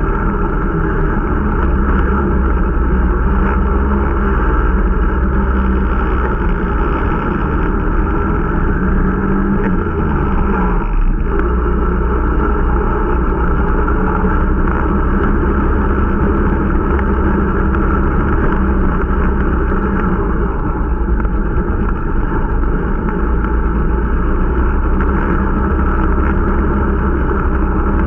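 Irbis Dingo T125 snowmobile's 125 cc single-cylinder four-stroke engine running steadily under way, with a brief dip about ten seconds in; the engine is new and being run in.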